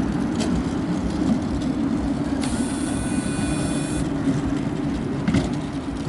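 Skateboard wheels under a refrigerator rolling over street pavement: a steady low rumble. A little over two seconds in, a high hiss with whistling tones comes in for about a second and a half, and a short knock follows near the end.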